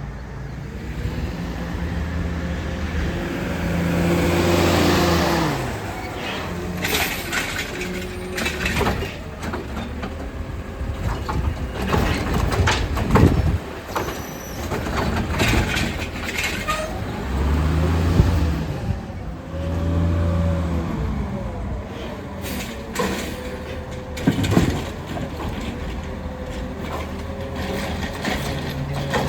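Garbage truck at work: the engine speeds up twice to drive the automated side-loading arm's hydraulics, with air-brake hissing and repeated metal clanks and knocks as cans are lifted and dumped into the hopper.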